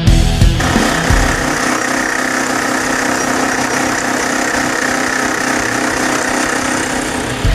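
Metal lathe running with a steady mechanical hum and vibration, setting in within the first second.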